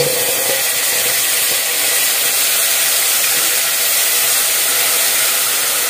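Loud, steady sizzle of tomato paste frying in hot oil with sautéed garlic and onion.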